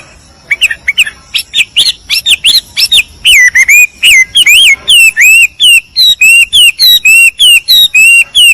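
A songbird singing a loud series of looping whistled notes, at first uneven, then from about three seconds in a steady, regular run of about three notes a second.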